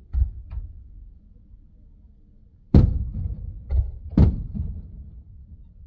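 Firework shells bursting, heard from inside a car: a run of booms, two faint ones at the start and the two loudest about three and four seconds in, each trailing off in a rumble.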